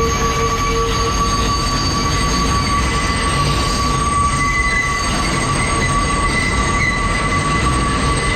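R142 subway car running through the South Ferry loop, its wheels squealing on the tight curve over a steady rumble from the wheels and tracks. The squeal holds several high tones at once, and a higher one grows stronger about halfway through.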